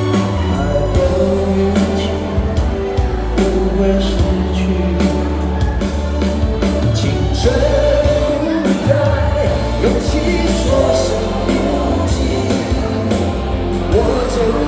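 Live pop-rock band playing a ballad: a steady bass line and drum hits under sung vocal lines with long-held notes.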